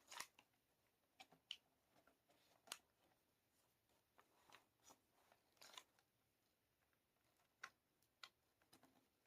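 Near silence with a few faint, scattered clicks and crackles: fused perler bead pieces being pressed by hand onto a plastic pegboard.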